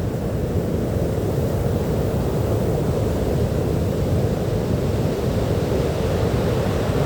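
Sea surf washing on a beach: a steady, deep rush of waves with no single break standing out.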